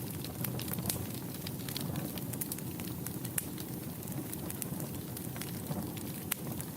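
Wood fire burning in a fireplace: a low steady rush of flames with many sharp irregular crackles and pops.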